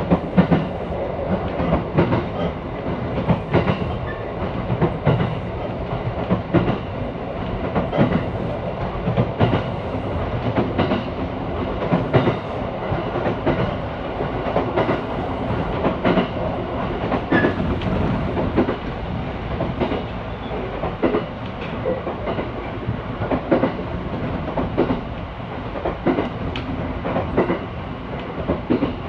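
A train running along the line, heard from inside the passenger car: a steady rumble of wheels on rail, with frequent irregular clacks.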